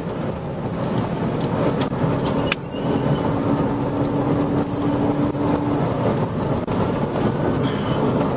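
Patrol car driving at around 90 mph: a steady rush of engine, tyre and wind noise. A few sharp clicks come about two seconds in, and a steady low hum runs through the middle.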